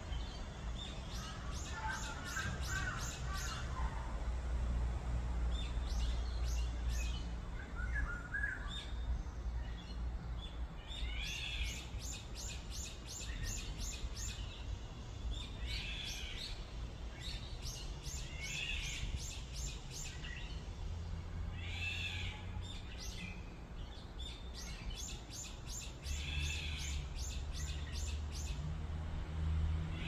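Several wild birds calling and singing in the tree canopy. There are rapid trills of high notes, a call repeated about every three seconds, and scattered chirps over a steady low rumble.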